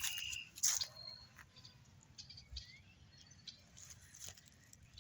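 A few faint, short, high bird chirps, one of them a quick rising call, with a single soft knock just under a second in.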